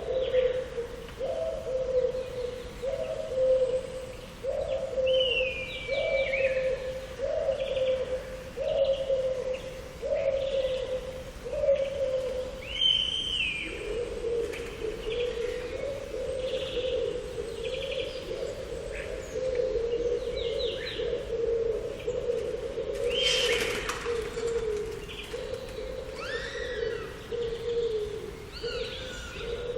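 Several birds calling and singing: short high chirps and gliding whistled phrases over a low call repeated a little more than once a second for the first twelve seconds. The low call then runs on unbroken as a steady warble.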